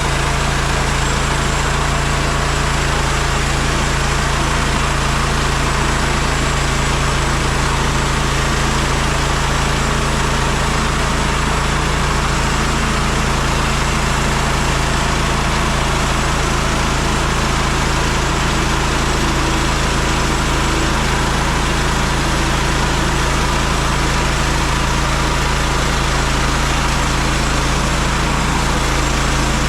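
MechMaxx SM32 portable band sawmill running steadily under its engine, with no change in pitch or level throughout.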